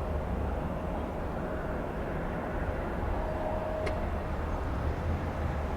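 Steady low rumble of a jet airliner's engines, with a faint steady tone running through it and a single short click about four seconds in.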